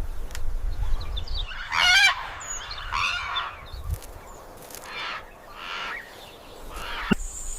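A bird giving a series of harsh, honking calls, about five spread over several seconds, over a low rumble. A sharp click sounds near the end.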